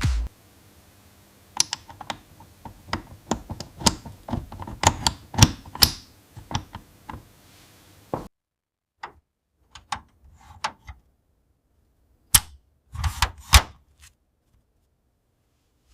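Irregular light clicks and taps of small hard objects, in a quick uneven run for about eight seconds, then a few scattered clicks with silence between them.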